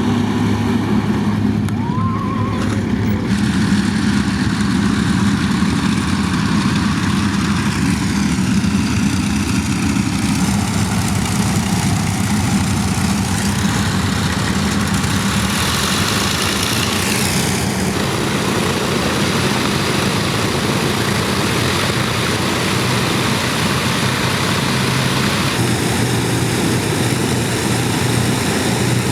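Avro Lancaster bomber's four Rolls-Royce Merlin engines running steadily, a loud, even propeller drone.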